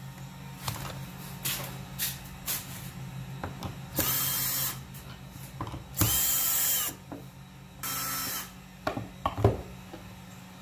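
A small power tool's motor, drill-like, runs in three short bursts of about a second or less, with clicks and knocks of handling between them.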